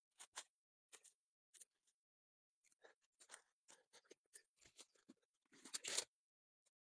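Wild celery stems being picked by hand: a run of faint, crisp snaps and crunches, with a longer, louder crackling rustle of the plants about three-quarters of the way through.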